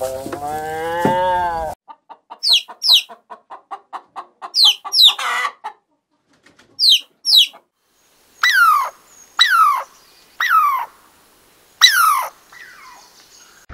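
A Holstein cow moos once, a call with a bending pitch. Then a hen clucks in a quick run of short clucks while chicks peep in high, falling notes. Near the end come five short calls, each falling in pitch.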